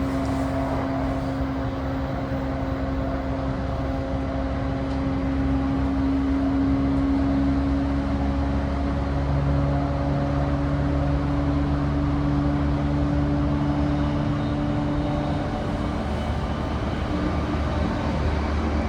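Running noise inside a JR East E235-1000 series electric motor car with a Mitsubishi full-SiC MOSFET VVVF drive, travelling at steady speed: wheel and rail noise with a steady low motor hum that fades about three-quarters of the way through.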